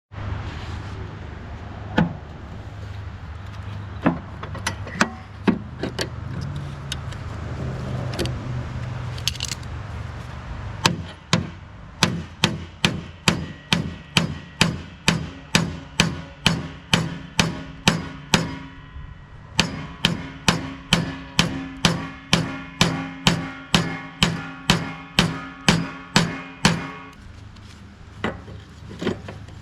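Hammer blows on the bent pulley bracket of a Craftsman T1600 mower deck, straightening it. A few scattered strikes come first, then a steady run of about two blows a second with a short pause halfway, the metal ringing after each blow.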